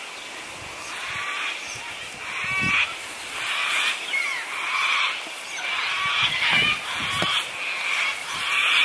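Birds calling over and over, with harsh, rising and falling calls, together with a few low thumps.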